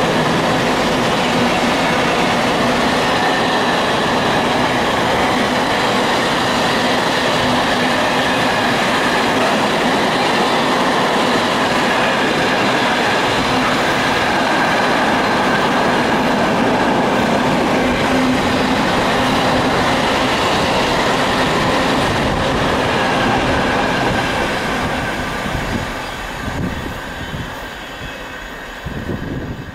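A train passing close along the platform: steady rail and wheel noise with clatter over the track, dying away in the last few seconds as the end of the train draws off.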